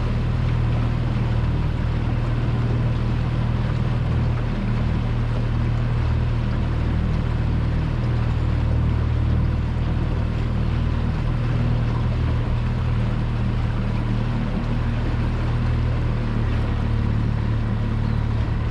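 Petrol outboard motor on a small aluminium boat running steadily at trolling speed: an even low drone with a hiss over it.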